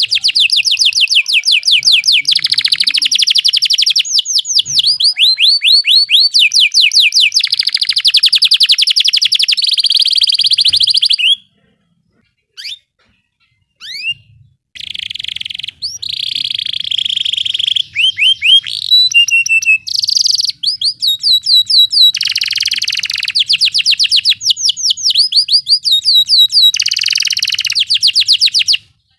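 Domestic canary singing long, rapid rolling trills of fast-repeated high notes. The song breaks off for about three seconds a little before the middle, with only a couple of short chirps, then resumes.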